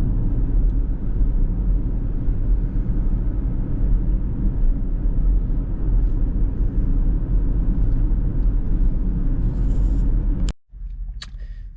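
Steady low road and tyre rumble inside the cabin of a Ford Mustang Mach-E being driven, with no engine note from the electric car. It cuts off abruptly about ten and a half seconds in, leaving a much quieter background.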